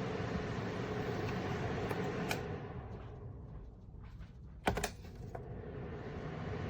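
Electric space heater's fan running with a steady whir and low hum. A click about two seconds in, then the whir drops away, a sharp double click near the middle, and the whir returns.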